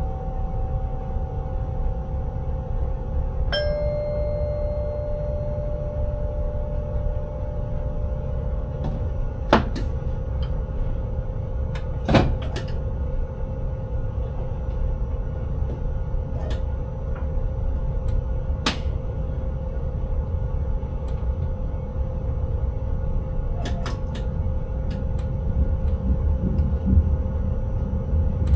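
Electric intercity train running, heard inside the driver's cab: a steady low rumble with a steady hum. A single ringing ding comes about three and a half seconds in and fades over a few seconds. A few sharp clicks follow, the loudest about twelve seconds in.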